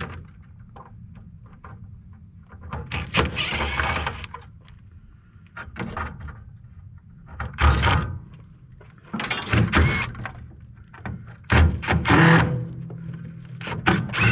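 Metal knocking and scraping in several separate bouts as a scrap part from an air conditioner is worked apart by hand, over a steady low hum.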